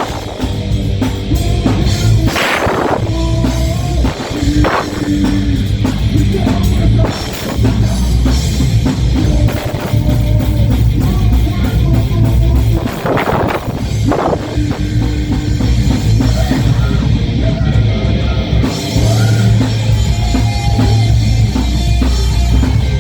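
Rock band playing live, with drum kit and guitars, loud and continuous.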